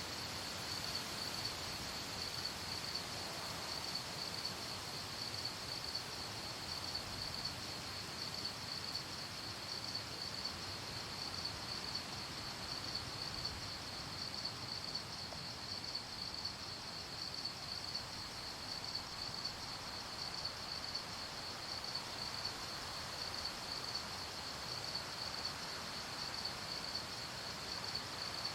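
Crickets chirping in a steady, rapid pulsing chorus over a soft, even background hiss.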